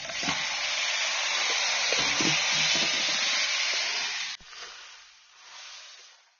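Raw chicken pieces dropped into hot mustard oil and masala in a wok, sizzling loudly. The sizzle cuts off suddenly about four seconds in, and a fainter sizzle follows as the chicken is stirred.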